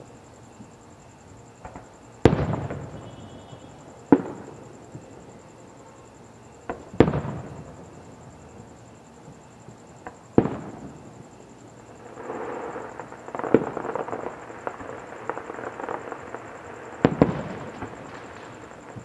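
Aerial firework shells bursting: about six sharp booms a few seconds apart, each trailing off in a rolling echo, with a stretch of dense crackling pops between the booms from about two-thirds of the way in.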